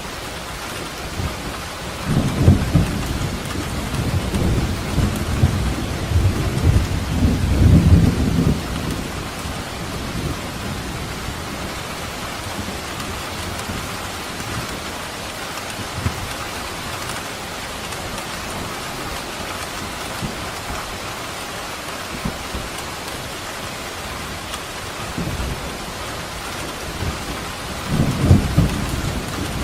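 Steady heavy rain falling, with two deep rolls of thunder: a long rumble swelling in about two seconds in and fading after several seconds, and another building near the end.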